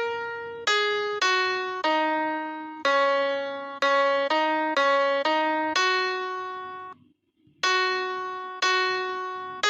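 Background music: a simple melody of single piano-like keyboard notes, each struck and fading, with a short pause about seven seconds in before the tune starts again.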